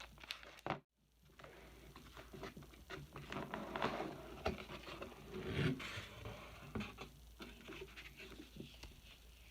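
Faint handling of a flower press kit's plastic parts and packaging: scattered rustling, scraping and light clicks. There is a brief total dropout to silence about a second in.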